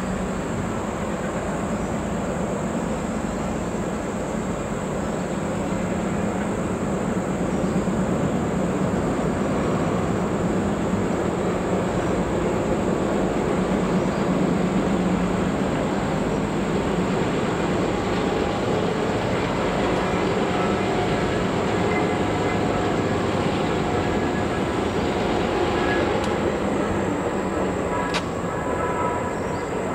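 Black River & Western excursion train rolling past: a steady rumble of the coaches on the rails and the SW1500 diesel switcher's engine. Thin squealing wheel tones join over the second half.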